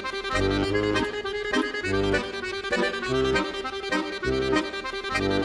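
Background accordion music: sustained chords over a regular oom-pah bass.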